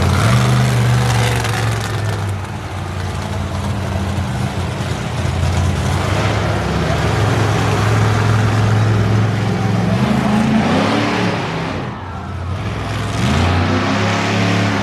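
A vehicle engine running steadily, its pitch rising as it revs about ten seconds in and again near the end.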